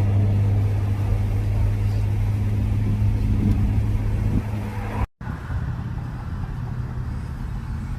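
Steady engine hum and road rumble of a car driving along the highway. About five seconds in the sound cuts off briefly and picks up again as another, lower stretch of driving noise.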